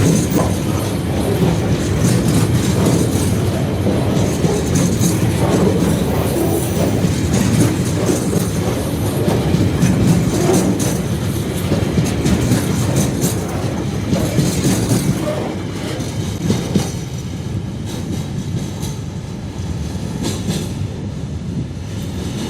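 A train rolling past, its wagons' wheels clicking over rail joints with some high-pitched wheel squeal. The sound is loud at first and eases off from about two-thirds of the way in as the train draws away.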